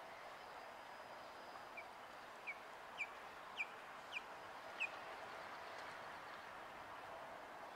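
A bird calling: a series of six short, high, downslurred notes about two-thirds of a second apart, growing louder, over faint outdoor background.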